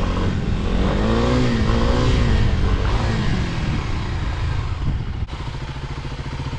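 SSR 125 pit bike's single-cylinder four-stroke engine being ridden, revving up and back down in a rising and falling swell of pitch. About five seconds in the sound cuts suddenly to a steadier engine note.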